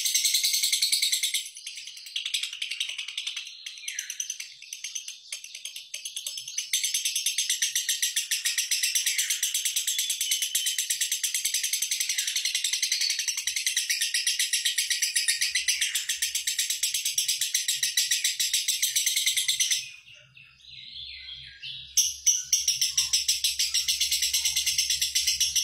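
Lovebird giving a long, rapid, high-pitched chattering trill (the 'ngekek'), the pulses coming too fast to count. It stops for about two seconds near the end, then starts again.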